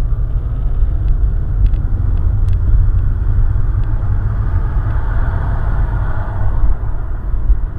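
Steady low rumble of a moving car, road and engine noise, with a few faint ticks in the first couple of seconds.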